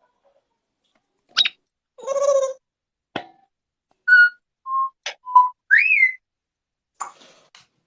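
A parrot making a string of short sounds: sharp clicks, a brief squawk, then several short whistled notes, the longest one rising and falling in pitch.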